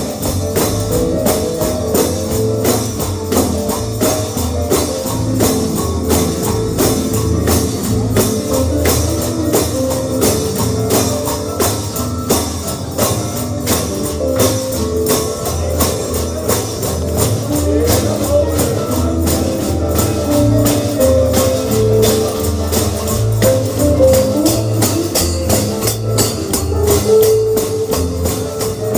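Upbeat bluegrass gospel music with a fast, steady tambourine beat over a bass line and sustained instrumental notes.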